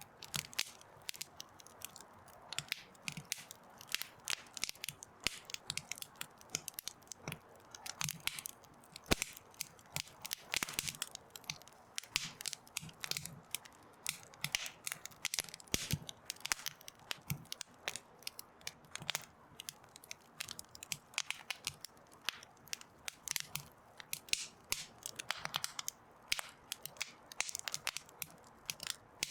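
Wood fire crackling, with many irregular sharp snaps several times a second.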